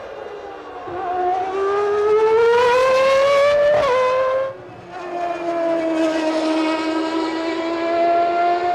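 Formula One race car engine at high revs: the pitch climbs steadily as the car accelerates, with a quick gear change near four seconds in. The sound then drops briefly, and a steady, nearly level high-revving engine note follows.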